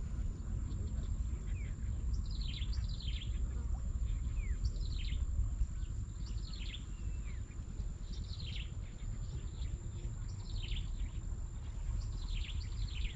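A bird calling over and over, short quick falling notes in little runs every one to two seconds, above a steady low rumble and a thin constant high tone.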